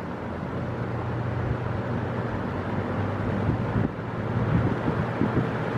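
1992–93 Galaxy 3723 box fan, with its full-size motor, running on medium speed: a steady rush of air with a low motor hum. It runs pretty quiet, freshly cleaned and oiled.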